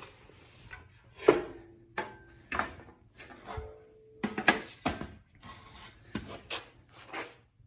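Irregular metal clanks and knocks from a 1/2-inch wrench and the steel stand's leg bolts while they are tightened, about a dozen strikes, several ringing briefly.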